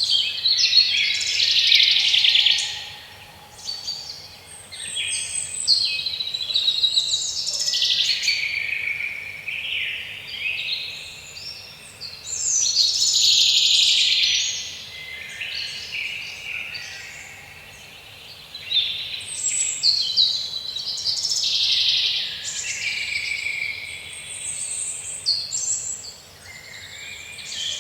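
Several songbirds singing over each other in a woodland chorus, phrase after phrase of high chirps and trills with louder bursts about two, fourteen and twenty-two seconds in.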